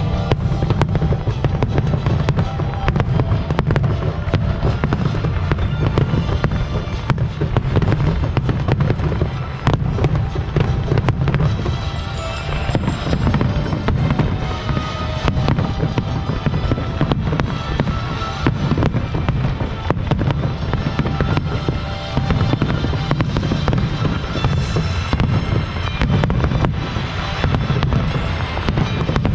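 Aerial fireworks display: a dense, continuous run of sharp bangs and crackles over a steady low booming. Music plays along with it.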